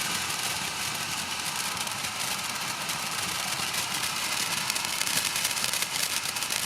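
Ground spinner fireworks burning with a steady hiss, a crackle building near the end.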